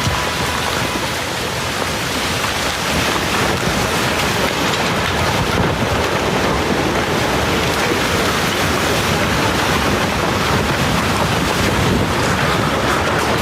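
Steady, loud rushing noise of a heavy rainstorm, rain and wind together, with no distinct impacts.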